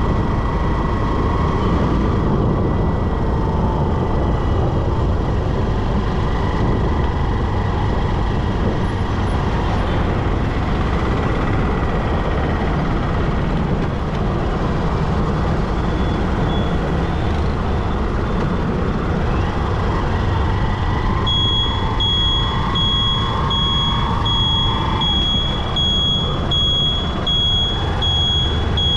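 Road and traffic noise heard from a moving motorbike in city traffic, a steady heavy rumble. About three quarters of the way in, a high electronic beep starts pulsing about twice a second and keeps going.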